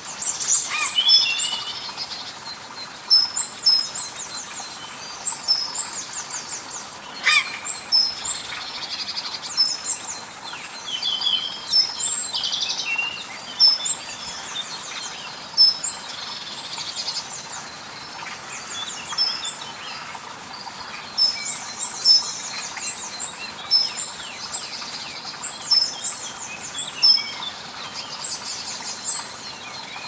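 Garden birds singing, a busy run of short, high, repeated chirps and trills that overlap throughout, over a faint steady outdoor hiss.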